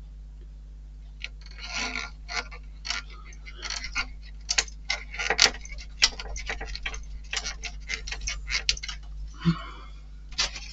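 Small screwdriver driving a screw into a plastic model-kit part: a run of quick, irregular clicks and ticks, thickest in the middle.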